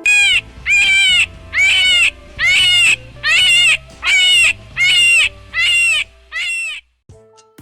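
An animal calling nine times in a steady series, each call about half a second long and arching up then down in pitch, with the calls stopping about a second before the end. Quiet music plays underneath.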